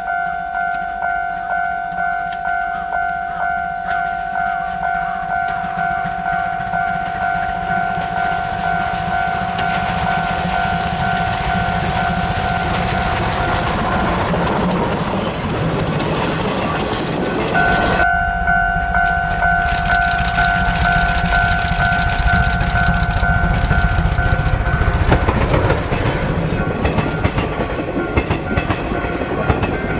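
Level crossing warning signal ringing in a steady pulsing tone while a steam-hauled train approaches and passes, its running and rattling growing louder from about a third of the way in.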